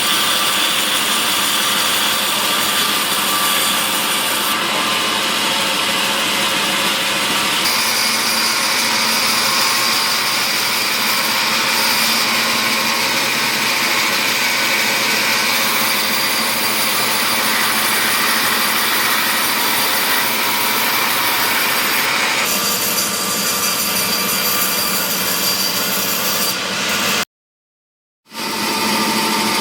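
Power saw cutting mahogany timber: a steady, loud noise of the blade in the wood that shifts in pitch a few times as the cut goes on. The sound drops out completely for about a second near the end.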